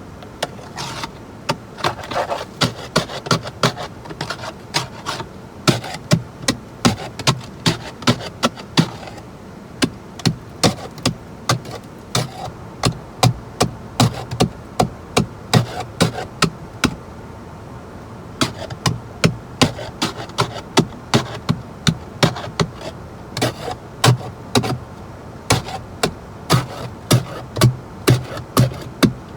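Repeated sharp strikes, about two a second, in runs with short pauses, like a tool chipping and breaking ice after freezing rain.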